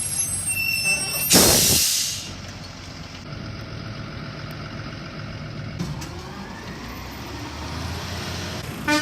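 A truck's diesel engine running steadily, with a loud hiss of air brakes releasing about a second in.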